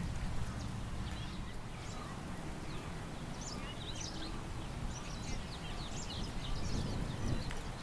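Several small birds chirping in short, quick calls over a steady low wind rumble; the chirping grows busier over the second half.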